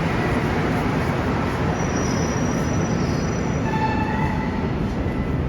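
Rubber-tyred Montreal metro train running through the station: a steady loud rumble, with high squealing tones from about two seconds in until near the end.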